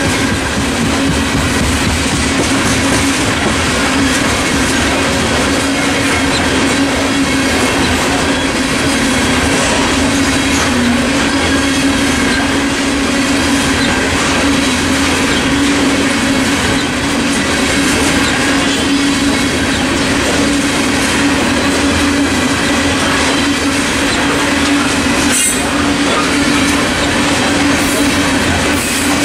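Coal train hopper cars rolling past at close range: a steady rumble and clatter of steel wheels on rail, with a steady tone underneath and one sharp clank near the end.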